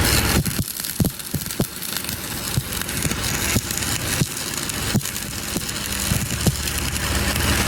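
Stick welding arc on steel: a steady frying sizzle with irregular sharp pops and crackles.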